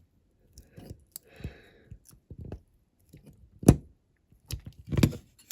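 Scattered clicks and knocks of a hand tool prying at plastic window glazing stuck in a diecast metal toy car body, with a few short scrapes. The sharpest knocks come about two-thirds of the way through and near the end.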